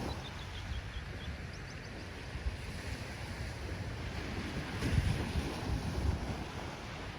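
Ocean waves washing ashore, a steady low rumble that swells about five seconds in, with wind buffeting the microphone.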